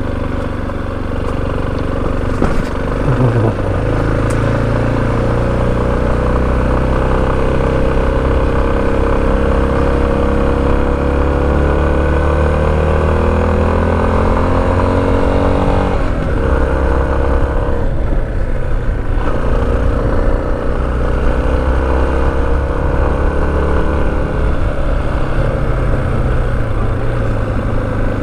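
Motorcycle engine running under way, its pitch climbing slowly as the bike gathers speed, then dropping sharply about halfway through and running on lower.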